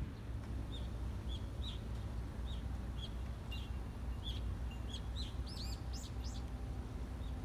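A bird chirping: short repeated calls about twice a second, then a quicker run of higher, arching notes a little before the end, over a steady low rumble.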